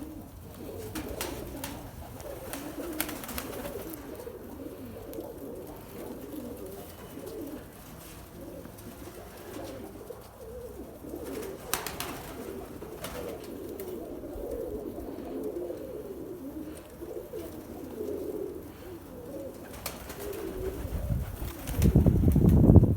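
Domestic pigeons cooing continuously, several birds overlapping. Near the end, a loud low rumble comes over them.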